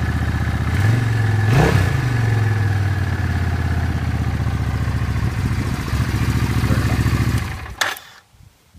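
Suzuki Intruder 800 (Boulevard C50) V-twin engine idling steadily shortly after a cold start, with a quick throttle blip about a second and a half in that raises and drops the pitch. Near the end the engine is shut off and the sound dies away, with a sharp click as it stops.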